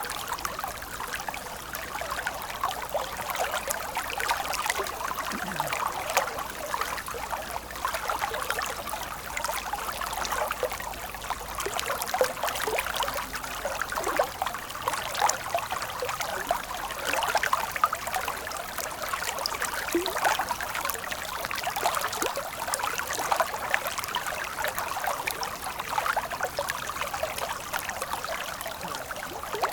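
Stream water running steadily, a continuous rush full of small splashes and trickles.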